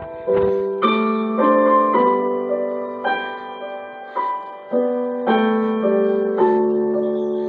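Soft background piano music: slow, gentle notes and chords, each struck and left to ring and fade.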